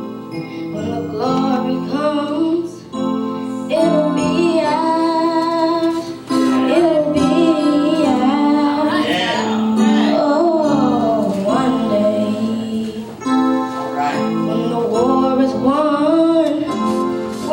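Singing with piano or keyboard accompaniment; the voice bends and wavers through long runs over held chords.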